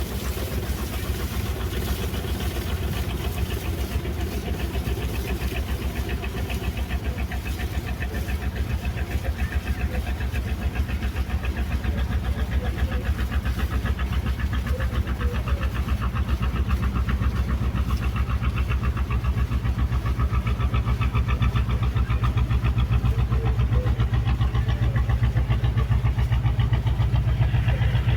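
A boat's engine running steadily with a fast, even throb, getting a little louder in the second half.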